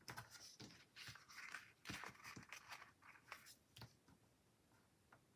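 Faint rustling and light clicks of paper stickers being peeled from a sticker sheet and pressed onto a planner page, in a few short bursts that die away in the last second or so.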